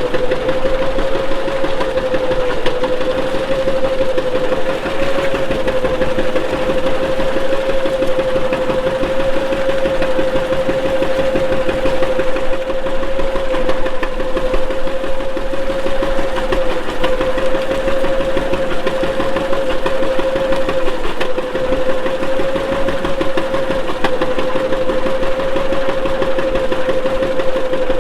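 Antique farm tractor engine running steadily under way with a fast, even chugging and a strong steady drone.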